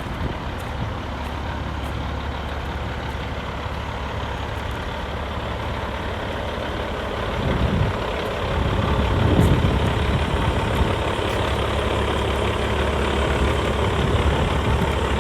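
Peterbilt 388's CAT C15 diesel engine running, steady at first, then swelling briefly about halfway through and running louder after that.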